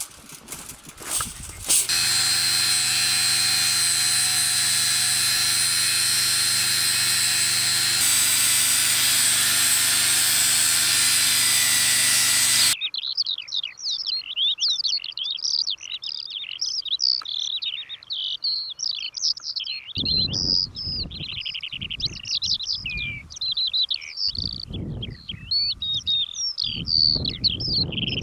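Birds singing: many quick, high chirps and trills overlapping continuously, with bursts of low rumble in the later part. Before that, a loud steady noise with a constant hum runs for about ten seconds and cuts off suddenly.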